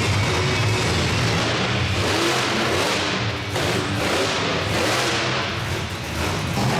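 Monster truck engine running hard and revving repeatedly, its pitch rising and falling over several seconds.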